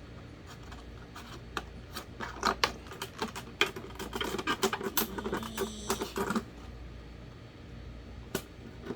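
Plastic parts of an electric fan being handled and pushed together: a busy run of clicks, taps and rattles, thickest from about two to six seconds in, then a single click near the end.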